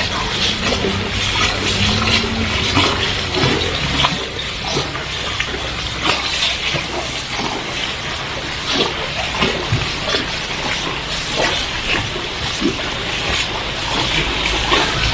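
Heavy rain pouring down and splashing onto a flooded street, a dense steady hiss full of drop patter, with a steady low hum underneath.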